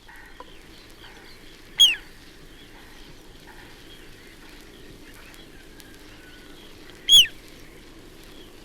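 Little ringed plover giving its typical call: a short, loud whistle that slurs downward in pitch, heard twice about five seconds apart, with faint calls of other birds in between.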